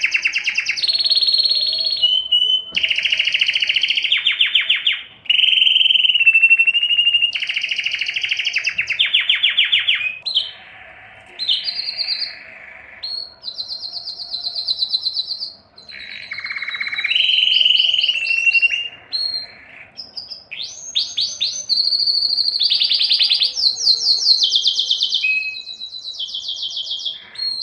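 Domestic canary singing a long song of rapid trills, one repeated-note phrase after another, each a second or two long and changing in pitch, broken by a few short pauses.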